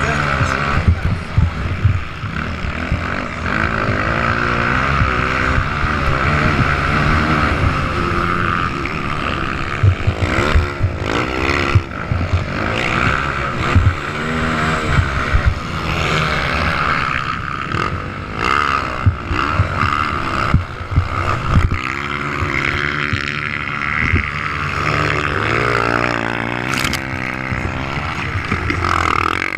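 Motocross bike engines revving up and falling back again and again as the bikes ride around the track, several engine pitches overlapping.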